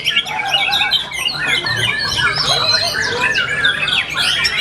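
White-rumped shama singing: a dense, unbroken run of rapid, varied whistles, chirps and trills, sliding up and down in pitch, with a low hum underneath.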